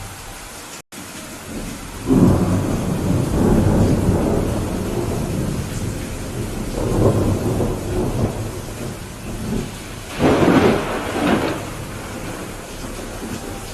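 Steady rain with rolling thunder: a long rumble begins about two seconds in, another swells around seven seconds, and a louder, sharper peal comes near ten seconds. The sound drops out for an instant about a second in.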